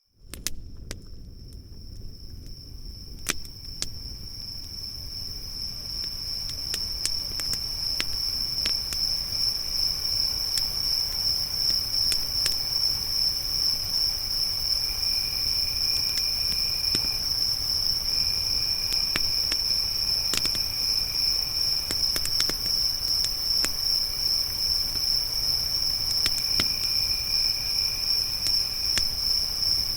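Crickets trilling in a steady, high, continuous chorus, with campfire crackle as scattered sharp pops and snaps. A second, lower insect trill comes and goes. The whole sound fades in over the first several seconds.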